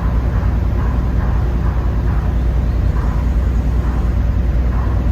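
Steady low rumble of a ferry under way, heard from on board, with wind and water noise; no distinct engine or turbine whine stands out.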